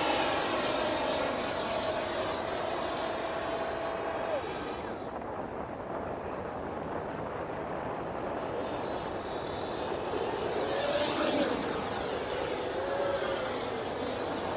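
Whine of an FMS BAE Hawk electric ducted fan model jet in flight. It drops in pitch and fades about four to five seconds in, then comes back about ten seconds in, wavering up and down in pitch.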